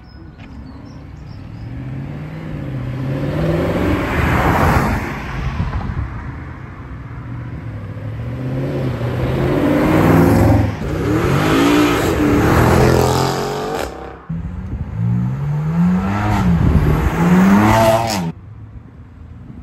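Mercedes-Benz SLS AMG Roadster's 6.2-litre V8 accelerating hard past, the engine note climbing in pitch and dropping back several times as it revs and shifts up through the gears, growing louder as it nears. The sound breaks off suddenly about two-thirds through, resumes with more rising revs, and stops abruptly near the end.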